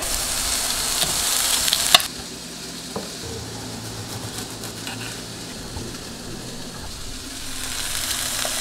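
Meat, carrots and rice sizzling in a frying pan as rice is spooned in and stirred. About two seconds in it cuts off sharply to a quieter stretch with a few light knife taps as broccoli is cut, and the sizzling builds again near the end.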